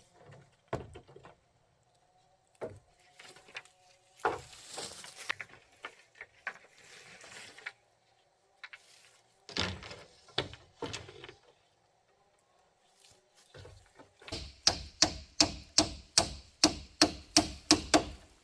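A tool striking wood: scattered knocks and a stretch of scraping, then a steady run of about a dozen sharp, even strikes, roughly three a second, in the last few seconds.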